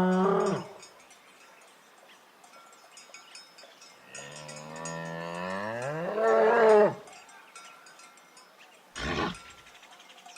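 Bull mooing: a short moo at the start, then a long, drawn-out moo that rises in pitch and grows loudest just before it stops, about seven seconds in. A short burst of sound follows near the end.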